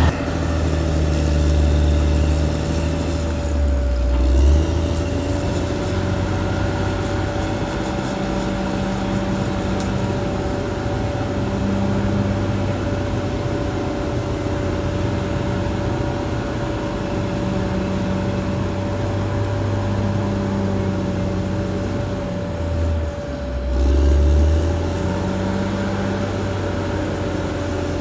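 Caterpillar D6R XL bulldozer's diesel engine running steadily with a constant thin whine over it. The engine swells louder briefly twice, about four seconds in and again near the end.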